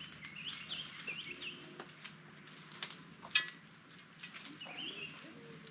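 Small birds chirping in short wavering calls, over sharp clicks of hand pruning snips cutting bonsai foliage; the loudest snip comes about three and a half seconds in with a brief metallic ring.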